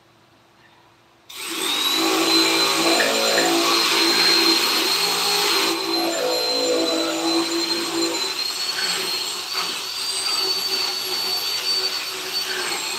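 An electric power tool switches on about a second in and runs steadily with a high whine, its pitch wavering slightly as it works.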